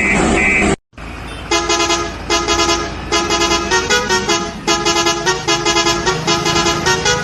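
Vehicle horn honking in a fast, rhythmic run of short toots over a low engine rumble, a few notes pitched slightly differently like a musical horn. Before it, a regular beeping plays briefly and cuts off suddenly.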